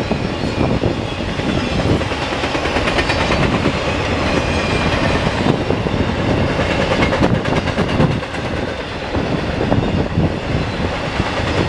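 Intermodal freight train cars (container well cars and trailer-carrying spine cars) rolling past at speed: a loud, steady rumble of steel wheels on rail, with runs of rhythmic clicking as the wheels pass over the rail joints.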